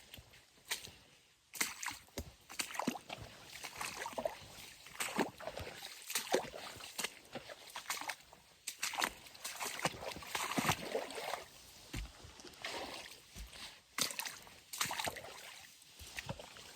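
Footsteps on wet ground, with sloshing and splashing at each uneven step.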